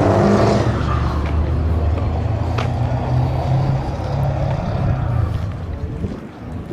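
Truck engine running at a steady pitch, then fading away near the end.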